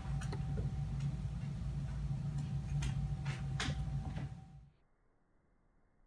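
A steady low hum of room tone with a few light ticks and taps. It cuts off abruptly to near silence about four and a half seconds in.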